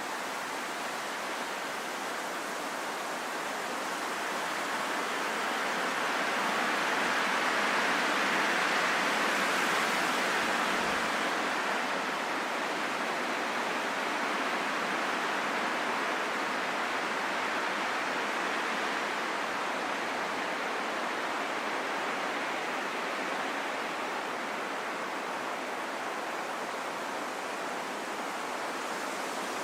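Steady rain falling in a forest, an even hiss of rainfall that swells slightly and eases off again about a third of the way in.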